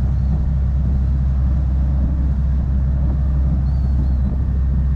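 Sightseeing cruise boat's engine running, a steady low drone, with a few faint, brief high chirps above it.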